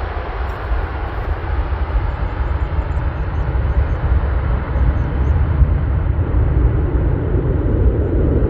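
Jet airliner passing by on its landing approach: steady engine noise with a deep rumble, the higher part slowly fading as it moves away.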